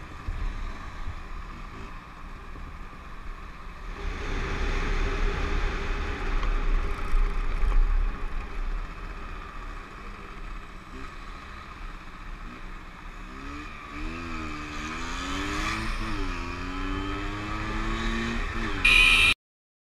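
Motorcycle riding in traffic: wind rumble and road noise, with the engine's pitch rising and falling through gear changes in the later seconds. A short loud burst comes near the end, and the sound then cuts off abruptly.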